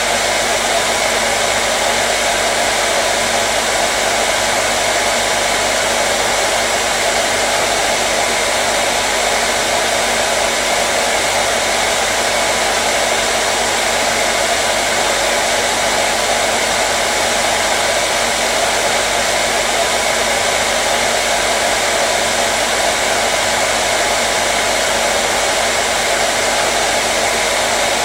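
Hair dryer running continuously at a steady speed: an even rush of blown air with a faint motor hum underneath, unchanging throughout.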